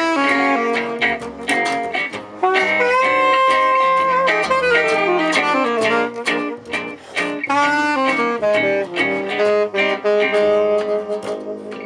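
Live gypsy jazz (jazz manouche): strummed acoustic guitar chords keep a steady beat under a lead melody line of held notes, which slides downward about five seconds in.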